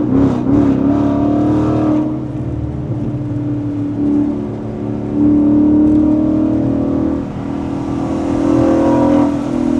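Ford Mustang GT's 5.0 V8 running through a full MBRP exhaust system, a steady exhaust note that gets louder about five seconds in and again near the end.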